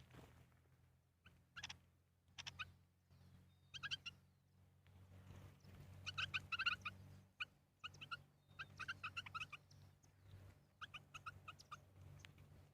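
A bird calling in runs of short, clipped notes, about four or five a second, loudest about six seconds in, over a faint steady low hum.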